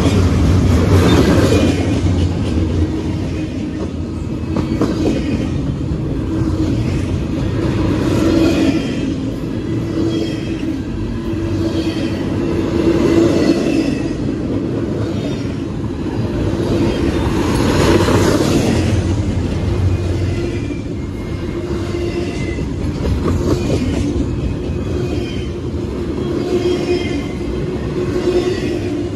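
Double-stack intermodal freight train passing close by: the well cars' wheels rumble and clack over the rails with a steady droning tone, swelling every few seconds as each set of wheels goes by.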